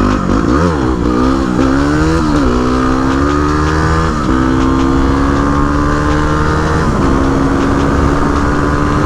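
Dual-sport motorcycle engine accelerating up through the gears. Its pitch climbs and drops back at each upshift, about five shifts, the later gears longer, then it holds a slow, steady climb. It runs without cam chain slap, on a newly fitted manual cam chain tensioner.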